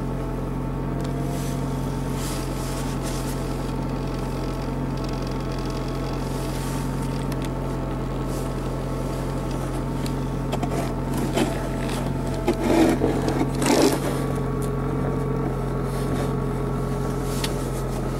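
Car engine idling steadily while it warms up, heard from inside the cabin as an even hum. A few knocks and rustles of handling come about two-thirds of the way through.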